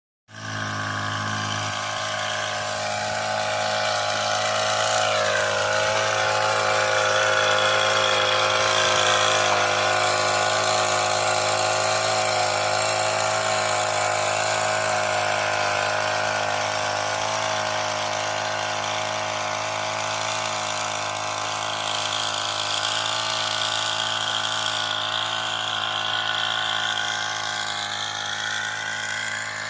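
Kaan agricultural sprayer running steadily, its motor and pump giving a continuous mechanical hum with a slightly drifting pitch.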